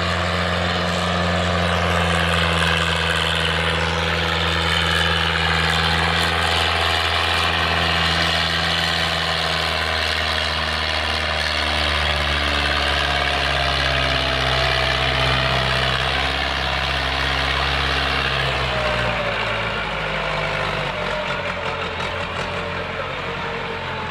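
Diesel tractor engine running steadily, its pitch shifting a few times and its note dropping and easing off about three-quarters of the way through.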